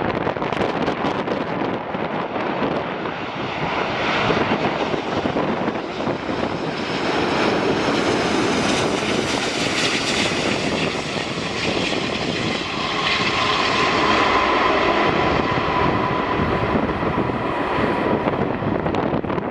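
An airliner's engines passing by, a rushing noise that swells to its fullest around the middle, with a steady whine showing through in the last several seconds.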